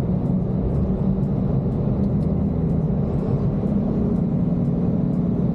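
Iveco 4x4 expedition truck driving steadily downhill on a 9% grade, a constant low engine and road rumble.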